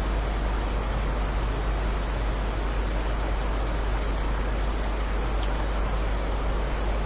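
Heavy rain falling as a steady, even hiss, with a deep rumble underneath and no single drops or thunder standing out.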